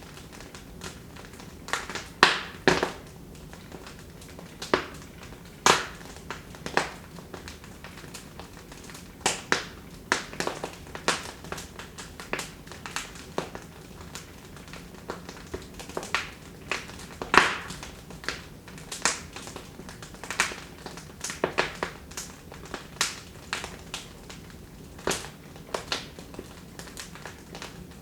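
Wood fire in a fireplace crackling, with irregular sharp pops and snaps several times a second over a low steady hiss.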